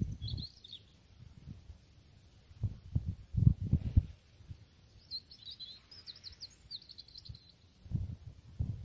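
A small bird chirping in short, quick twittering phrases, once just after the start and in a longer run from about five seconds in. Low, irregular rumbling thumps come louder in between, about three seconds in and again near the end.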